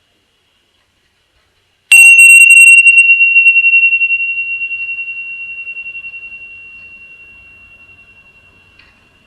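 A small meditation bell struck once about two seconds in, ringing on a single high tone with a slow pulsing waver and fading gradually over about seven seconds.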